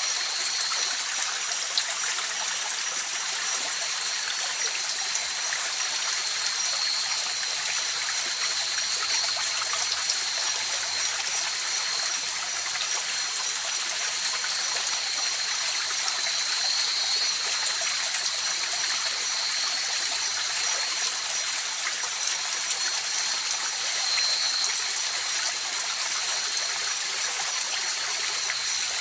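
River water flowing steadily, an even rushing hiss, with two faint steady high-pitched tones running over it.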